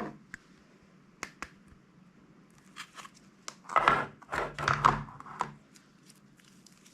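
Hands working slime: a few sharp clicks, then a burst of crinkling and crunching about four seconds in, lasting around a second and a half.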